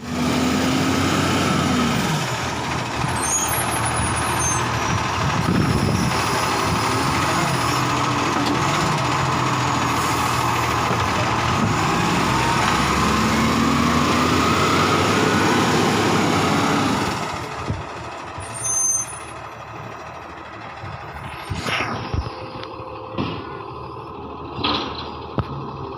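Garbage truck running loud, its engine pitch rising and falling, for about two-thirds of the time, then dropping away to a lower level with a few sharp knocks and clatters.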